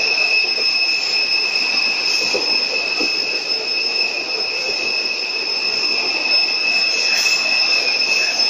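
Passenger train running, heard inside the carriage: a steady rushing noise with a constant high-pitched squeal over it.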